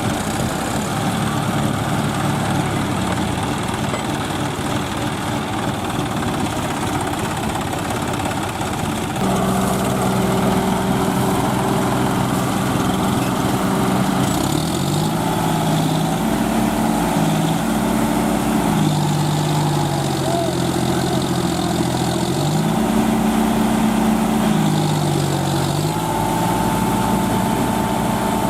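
John Deere 5045D tractor's diesel engine running, then revved up and down several times: it steps louder about a third of the way in, and its pitch climbs and drops back in repeated surges, as when working under load in mud.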